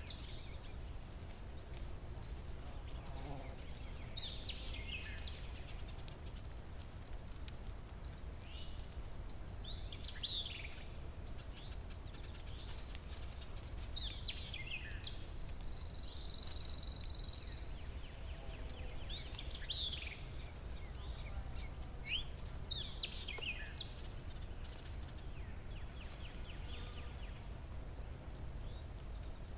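Forest ambience: songbirds repeating short, falling song phrases every few seconds over a steady low rumble and a thin, steady high-pitched hum.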